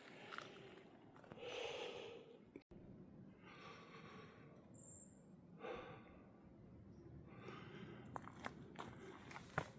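Faint breathing of a person walking uphill, a slow breath every couple of seconds. A brief high chirp comes about five seconds in, and a few soft clicks come near the end.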